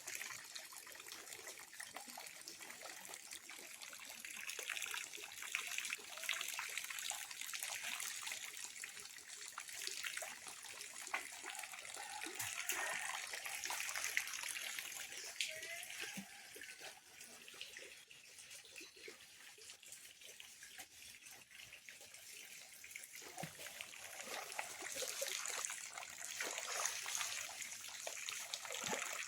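Water trickling and splashing as a small fish pond is cleaned out, dying down for several seconds past the middle.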